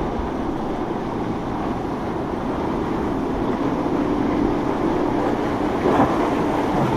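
Boat engine running as a boat passes through the inlet, a steady engine tone coming up about halfway through, over wind on the microphone and surf.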